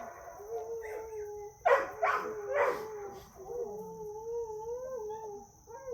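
A dog whining or howling in a long, wavering tone, broken by three sharp barks about two seconds in.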